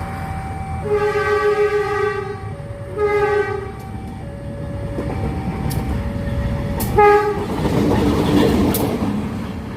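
Locomotive horn blowing three times: one long blast, a shorter one and a brief one. Underneath, a level-crossing warning alarm alternates steadily between two tones. Near the end, the rumble of the passing train swells up.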